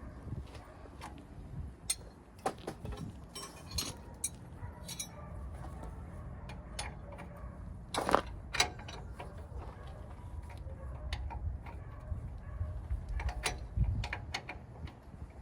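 Scattered metallic clicks, clinks and knocks of hand tools and parts being handled during work on the truck's front axle, over a low steady rumble. The loudest knocks come about halfway through and again near the end.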